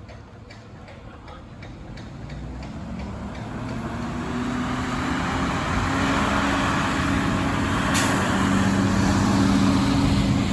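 Garbage truck running, growing louder over the first six seconds and then holding, with a steady drone. A single sharp click comes about eight seconds in.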